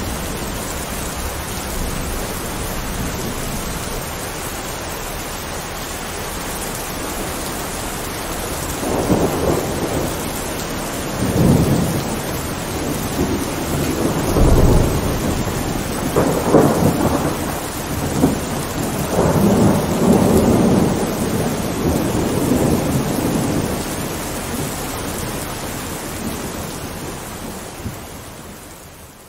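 Thunderstorm: steady heavy rain with thunder rolling through the middle, several rumbles swelling and dying away one after another. The sound fades out near the end.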